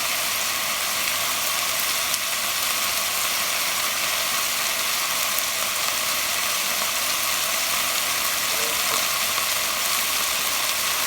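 Chicken pieces frying in hot oil in a pot, a steady sizzle, as the chicken browns.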